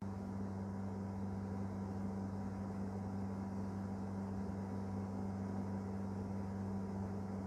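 Steady low machine hum, an unchanging drone with a faint hiss over it.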